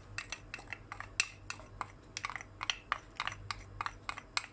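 Spoon clicking and clinking against a bowl while cubed raw potatoes are tossed with cornflour: quick, irregular light clicks, several a second.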